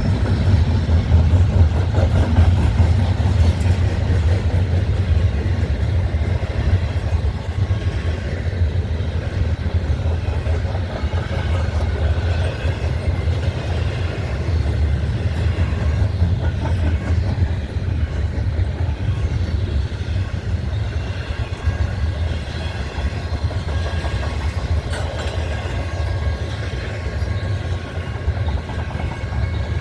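Freight train of container cars rolling steadily past: a continuous low rumble of steel wheels on the rails, with faint higher ringing tones over it.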